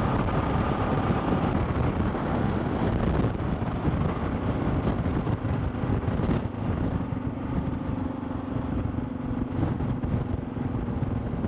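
Motorcycle riding with heavy wind rush. About six seconds in it slows: the wind noise drops away and the engine settles to a steady low note.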